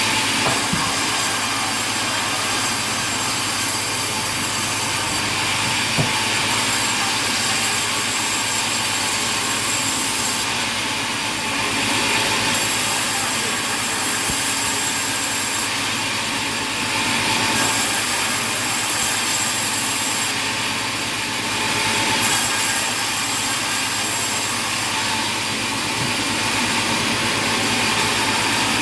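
Sawmill machinery running steadily, a high hiss swelling and fading several times, with one sharp knock about six seconds in.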